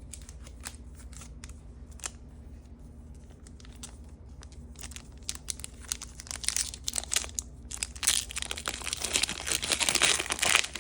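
Plastic packaging wrap being handled, crinkled and torn open: scattered clicks and rustles at first, then dense crinkling that grows louder and busier over the last few seconds.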